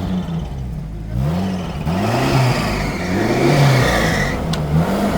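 Off-road vehicle engine, just restarted, revving up and down in repeated swells, about four times, with a steady hiss alongside it from about a second in.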